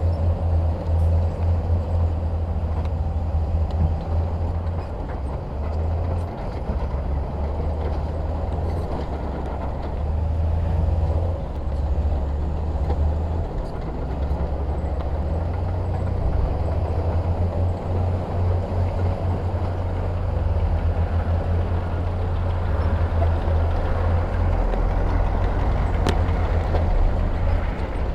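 Heavy diesel construction machinery running steadily, a deep engine rumble that rises and falls slightly in level.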